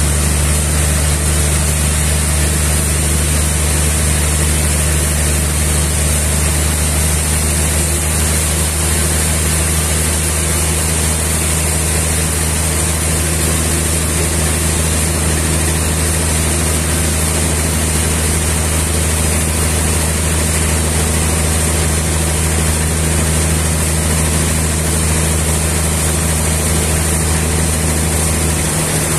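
A sawmill's engine running steadily with a constant low hum, its pitch shifting slightly near the end.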